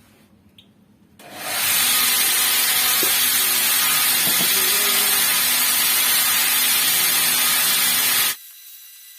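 A workshop power tool running with a loud, steady hiss, starting about a second in and stopping abruptly near the end.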